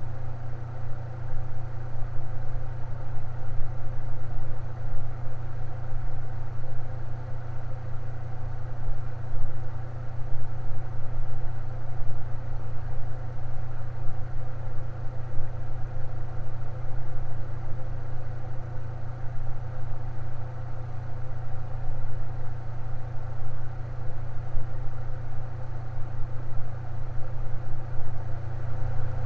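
Electric fan running steadily: a constant low hum with a few faint steady tones above it.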